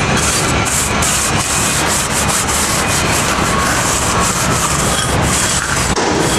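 A brush scrubbed back and forth over a heavily rusted, grimy ute wheel in rapid repeated strokes, knocking off loose rust and debris.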